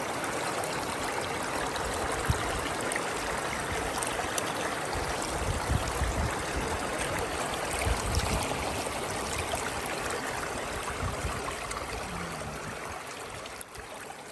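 Mountain stream rushing steadily over rocks, with a few low rumbles about halfway through.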